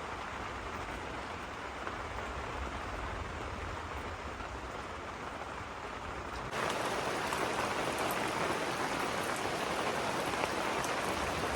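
Steady rain falling. About halfway through, the rain turns a little louder and brighter.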